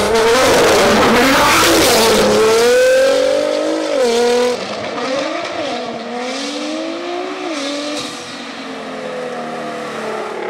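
Nissan GT-R's twin-turbo V6 revving, loud at first with a hiss of tire and exhaust noise for about four seconds, then quieter revs that rise and fall in pitch as the car rolls.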